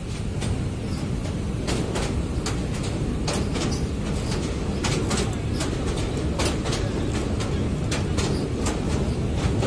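Train running, heard from inside the carriage: a steady low rumble with frequent sharp clicks and clanks from the wheels on the track.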